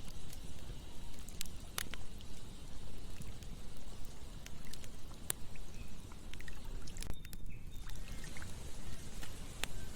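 Campfire burning with several sharp crackles and pops scattered through, over a steady low rush of flowing river water.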